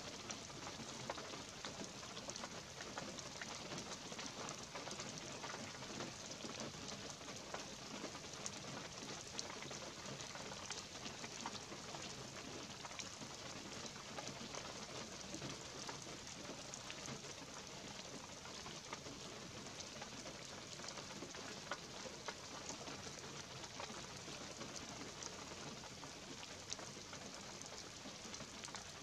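Light rain falling in a pine forest: a steady soft patter with many fine drop ticks and a few sharper ones scattered throughout.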